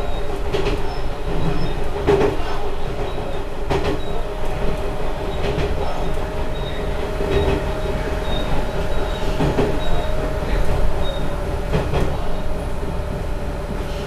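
Diesel railcar running along single track, heard from inside. A steady engine and running drone is broken by wheels clicking over rail joints every second or few.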